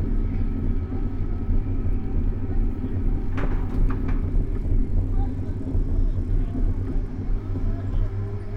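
Steady low rumble of riding along a city street on a bicycle, with road, wind and passing traffic noise, and two sharp clicks about three and a half and four seconds in.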